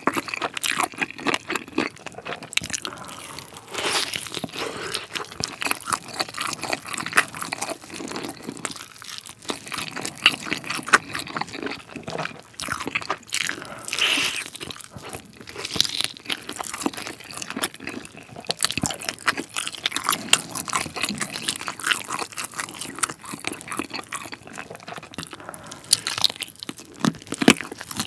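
Close-miked eating of a sauced chicken drumstick: bites, crunching and chewing, a dense run of irregular crackles and wet clicks.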